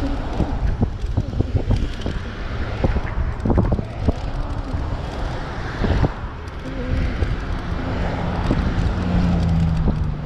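Wind buffeting the microphone of a moving e-bike, with rumbling road noise and a few sharp knocks. A low steady hum comes in near the end.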